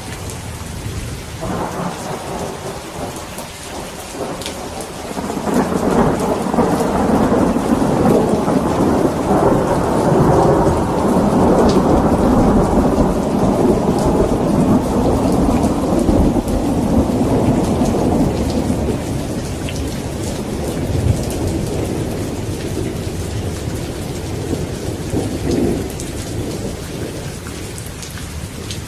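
Steady rain with a long, low roll of thunder that swells about five seconds in, holds for about ten seconds and slowly dies away near the end.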